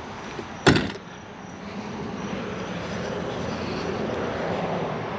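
A single sharp knock about a second in, then a steady rushing noise that slowly grows louder.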